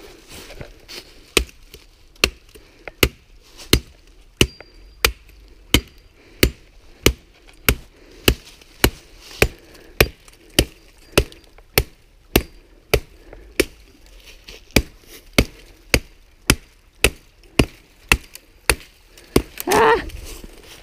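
Harbor Freight machete chopping into wood in a steady run of about thirty strokes, roughly three every two seconds. A short shout or grunt comes near the end.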